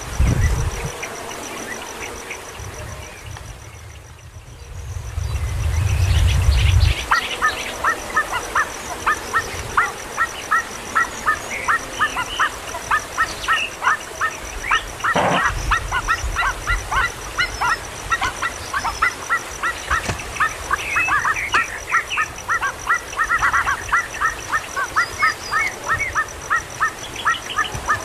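Baby kingfisher calling over and over, short nasal calls about two a second, typical of a chick begging for food. A low rumble comes before the calls and stops about seven seconds in.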